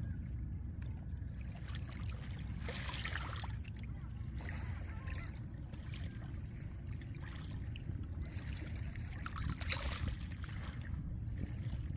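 Small lake waves washing over a pebble shore, with hissing and crackling wash and two larger waves, about three seconds in and near the end, over a steady low rumble.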